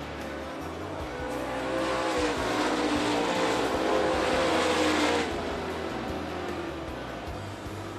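Several dirt late model race cars running at speed on a dirt oval, their V8 engines droning together. The sound swells as the pack passes close, then drops away suddenly about five seconds in.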